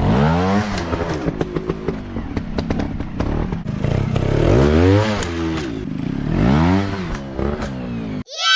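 Dirt bike engine revving up and dropping back three times, with clattering over it. Just before the end it cuts off abruptly, and a loud sound falling in pitch takes over.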